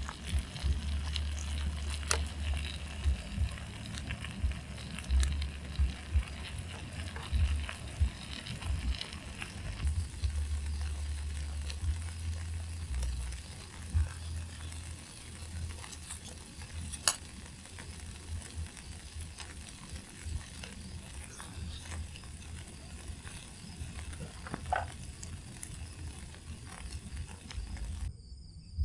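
Food sizzling in a pan over a campfire, with scattered clicks of a utensil stirring and a low rumble underneath. The sizzle is strongest in the first ten seconds or so.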